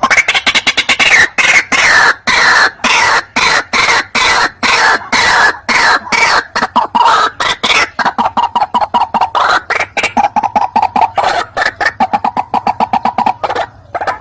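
White-breasted waterhen calling: a loud, harsh run of rapidly repeated notes, in phrases that slide down in pitch during the first half, then settling into a fast, steady, even-pitched pulsing for the rest.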